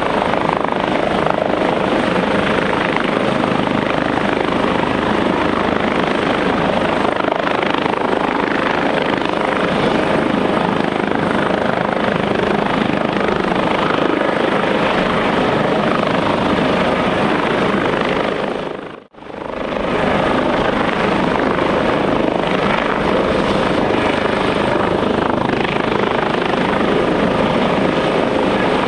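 Airbus H145 twin-turbine helicopter running, a steady, loud mix of rotor and turbine noise. The sound drops out sharply for a moment about two-thirds of the way through, then returns at the same level.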